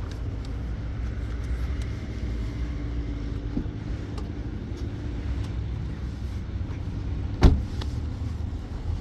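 Steady low rumble of a car on the move, with one sharp knock about seven and a half seconds in.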